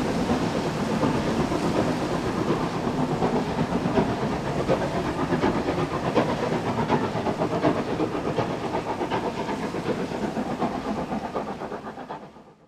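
Steam locomotive working a train, a steady rush of steam and running noise from the train. It fades away quickly near the end.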